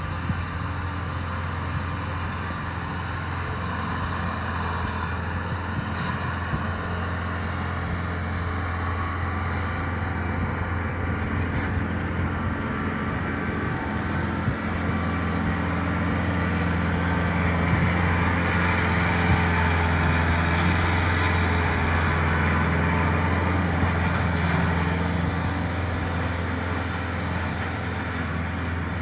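Mahindra tractor's diesel engine running steadily, with a deep drone that swells louder for several seconds in the middle before settling back.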